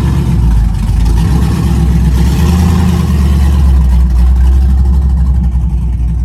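A car engine running close by with a deep, steady low rumble, swelling a little around the middle.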